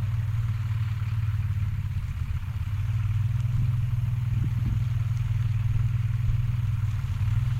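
A vehicle engine running steadily, heard as a constant low hum with a fine, even pulse.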